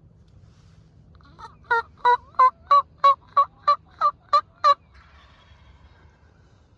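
A series of about ten loud turkey yelps, evenly spaced at roughly three a second, lasting about three seconds.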